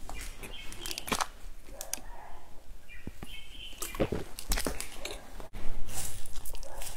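Close-miked chewing and mouth sounds with crisp crackles, then a louder run of crunchy bites into a crumbly biscuit near the end.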